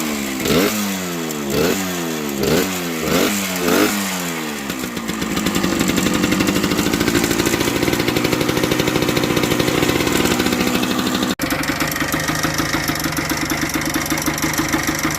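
A 1978 Yamaha DT100's single-cylinder two-stroke engine is blipped about five times in quick succession, each rev rising and dropping back, then settles into a steady idle. The bike's exhaust has a leak that is not yet sealed.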